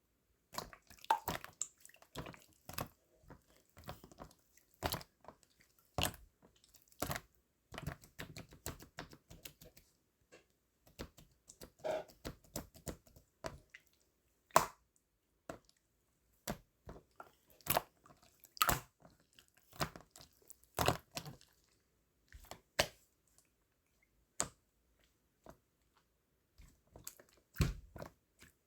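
Close-up wet squishing and crackling, in irregular short clicks and pops with gaps between them.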